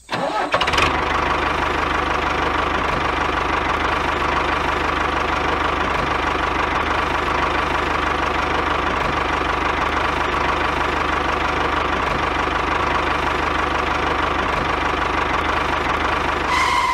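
Diesel tractor engine running steadily with a fast, even knocking chug, starting about half a second in.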